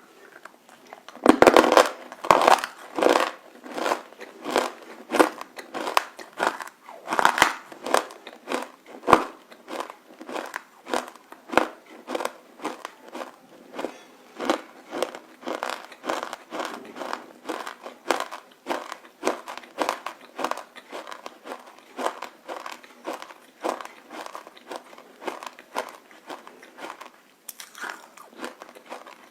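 Close-up biting and chewing of crunchy roasted edible clay (nakumatt): one loud crunching bite just over a second in, then steady crunching chews about twice a second, with a short pause near the end.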